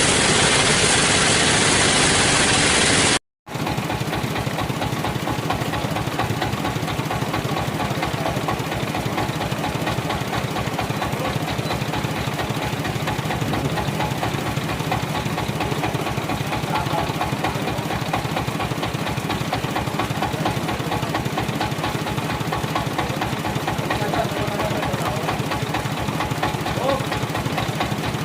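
Sawmill engine running steadily with a fast, even firing beat. About three seconds in the sound cuts out for a moment and starts again from another recording.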